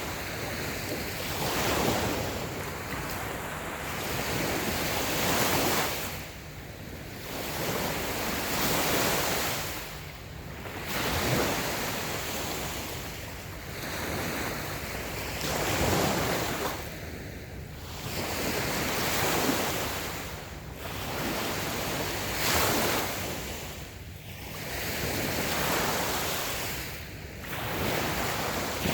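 Small waves breaking and washing up a sandy beach, the surf swelling and falling back every three to four seconds, with some wind noise on the microphone.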